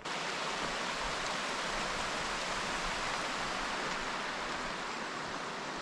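Rushing water, a steady even hiss of a mountain stream or cascade, with no change through the clip.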